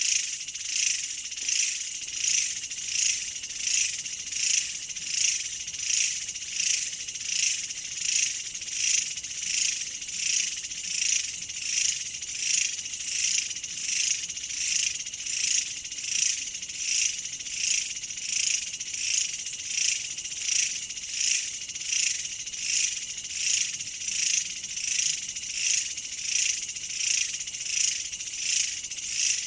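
Insect chorus: a high, dense buzzing trill that swells and fades in a steady rhythm about one and a half times a second.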